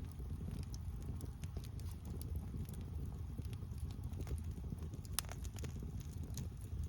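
Wood fire crackling: scattered sharp pops and snaps over a steady low rumble, with one louder pop about five seconds in.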